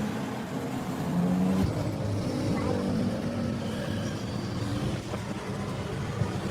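A motor running steadily with a low hum whose pitch wavers slightly.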